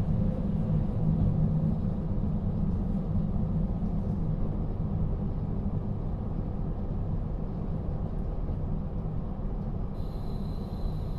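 Cab-body rumble inside a KiHa 40 series 350 diesel railcar running on the line: the N-DMF13HZB diesel engine and wheels on the rails make a steady low rumble that grows a little quieter. A high steady tone starts near the end.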